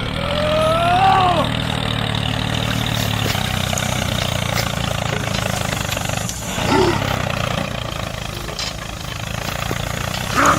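Tractor engine idling steadily. Short exclaimed voices rise and fall over it about a second in, again past the middle, and at the very end.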